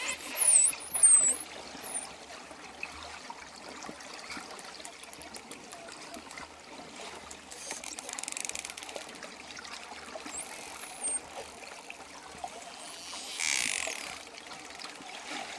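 Dolphin whistles over a steady trickle of water: a quick run of high whistles, each sweeping downward, in the first second and a half, and another whistle about ten seconds in. A short burst of noise sounds near the end.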